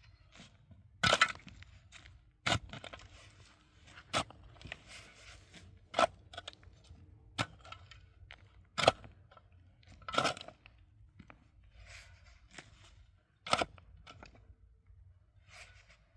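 Repeated sharp crunching blows, roughly one every second or two, with gritty scraping between some of them.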